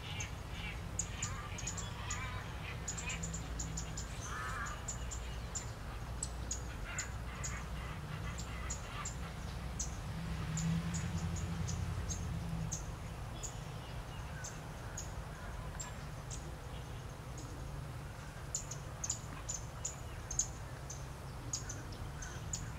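Birds calling by a lake: short high chirps recurring throughout and a few lower wavering calls, over a steady low rumble.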